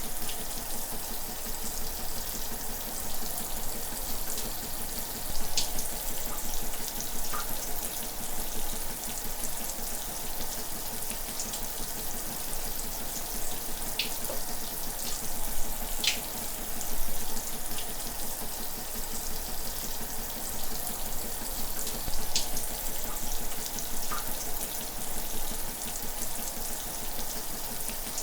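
Shower running: a steady spray of water hissing, with a few brief splashes or drips standing out now and then.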